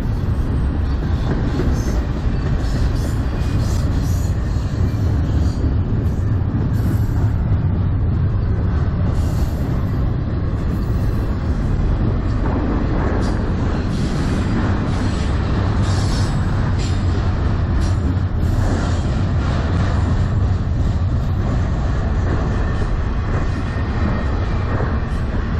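CN intermodal freight train rolling past, a loud steady rumble of wheels on rail, with wind buffeting the microphone.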